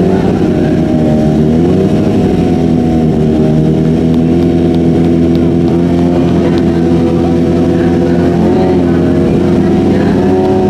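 Drag-racing motorcycle engines running at a steady high idle, with a few brief throttle blips where the pitch rises and falls.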